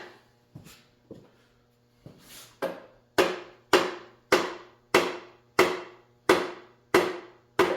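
Soft-faced rubber mallet hammering a tight-fitting part on a small motorcycle into place: a few light taps, then about eight firm, evenly spaced blows from about three seconds in, each ringing briefly.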